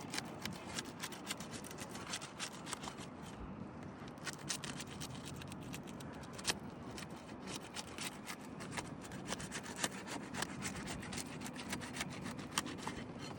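An asphalt three-tab shingle being worked loose from its adhesive seal: steady scraping and rubbing with a scatter of small sharp clicks and crackles throughout.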